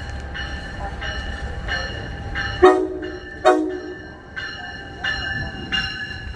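Train horn sounding two short blasts about a second apart, a little under halfway through, over a locomotive bell ringing steadily about one and a half strokes a second. A low engine rumble underneath stops at the first blast.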